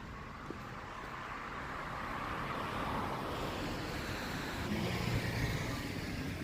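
Road traffic: a vehicle driving past, its noise swelling to a peak a few seconds in, then a low rumble.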